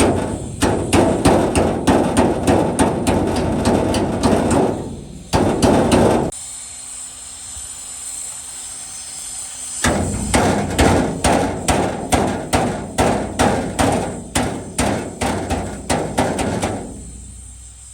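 Hammer blows on the truck cab's sheet metal in a steady rhythm of about two or three strikes a second, with a pause of a few seconds in the middle, typical of panel beating. During the pause a faint steady hum is left.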